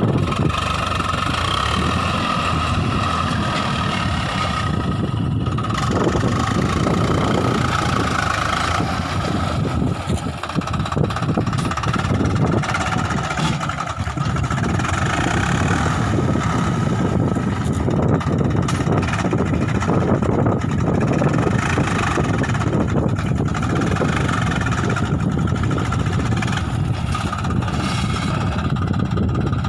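Swaraj 744 FE tractor's three-cylinder diesel engine running steadily under load, with a steady high whine on top, as it pulls a fully loaded trolley.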